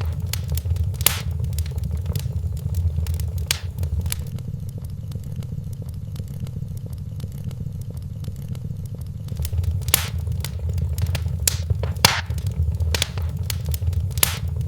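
Wood fire crackling in a fireplace: a steady low rumble of flames with scattered sharp pops, fewer of them in the middle and several close together near the end.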